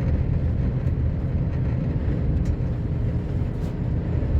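Sanding truck's engine and road noise heard from inside the cab, a steady low rumble while driving.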